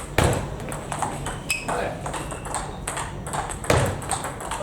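Table tennis rally: the celluloid ball clicks sharply off bats and tables in quick, irregular succession, with short high pings. Two louder low thuds stand out, one just after the start and one near the end.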